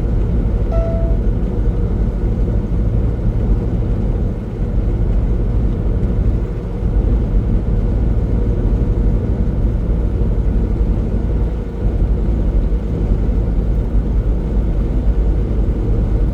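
Semi truck's diesel engine and road noise droning steadily inside the cab while driving on the highway, a deep even rumble. A short faint beep sounds about a second in.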